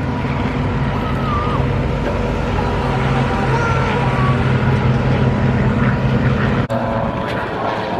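FG-1D Corsair and F8F Bearcat warbirds flying over, their Pratt & Whitney R-2800 radial piston engines giving a steady low drone. The sound cuts out abruptly for an instant about two-thirds of the way through.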